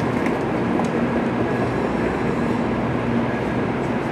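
Steady noise of an N700A Shinkansen train standing at the platform with its on-board equipment running, and a faint steady hum under it.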